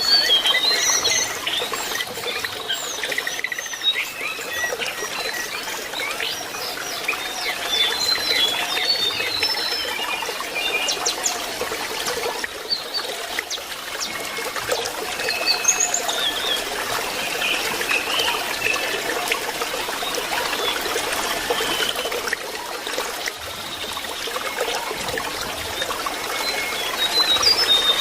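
Lesser shortwing song: a busy run of quick, high chirps and short trills, over a steady trickle of running water.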